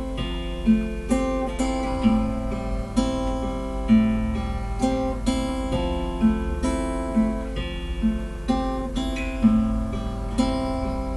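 Acoustic guitar playing an instrumental passage, plucked and strummed chords at an even pulse.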